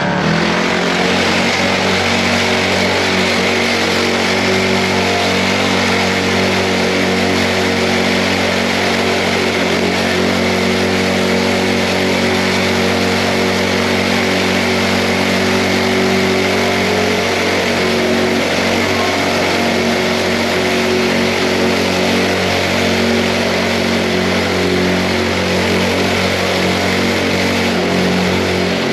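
Mini bike's small engine running at a steady speed under way, its pitch holding level with no revving.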